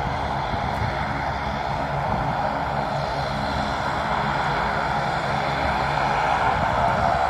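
Airplane engines running with a steady drone, growing slightly louder near the end.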